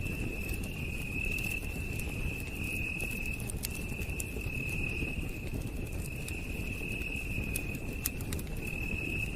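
Campfire crackling with scattered sharp pops, over a low steady rumble, with night insects trilling continuously at a high pitch.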